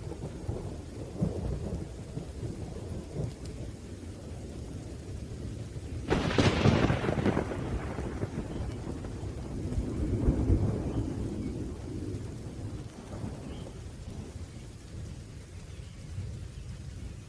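Thunderstorm with rain: thunder rumbles and rolls steadily, with a sudden sharp crack of thunder about six seconds in and another swell of rumbling around ten seconds.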